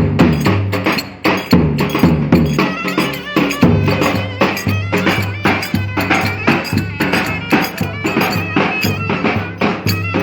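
Live Turkish wedding dance music: a reedy wind instrument plays an ornamented melody over a steady, driving drum beat.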